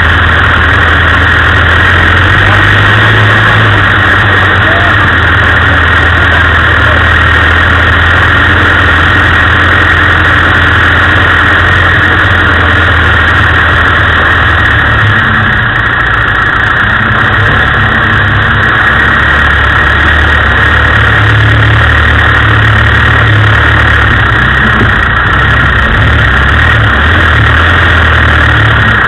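Land Rover engine running steadily as it drives slowly along a rough off-road track, under a loud, even hiss; the engine note shifts about halfway through.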